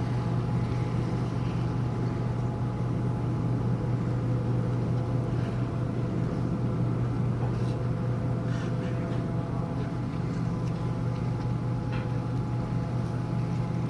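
Steady low drone of a large cruise ship's machinery, a constant deep hum with a few fainter steady higher tones over a light hiss, unchanging throughout.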